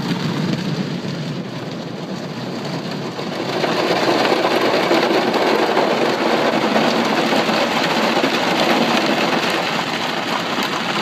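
Ryko SoftGloss Maxx automatic car wash heard from inside the car: spinning cloth brushes and water spray beating on the body and roof in a dense, steady rush of noise. It grows louder about three and a half seconds in.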